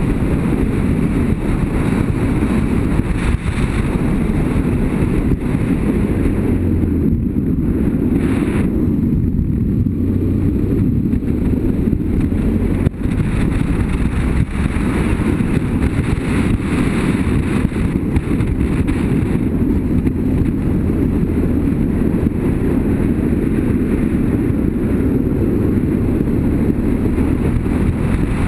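BMW F800GS motorcycle's parallel-twin engine running steadily under way, mixed with wind noise on the microphone.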